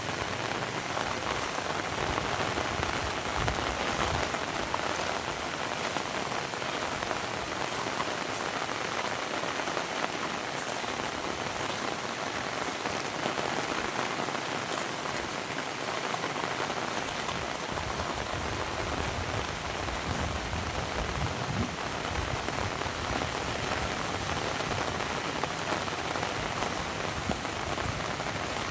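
Heavy rain falling steadily, a dense even patter of drops on surfaces, with a few soft low thuds now and then.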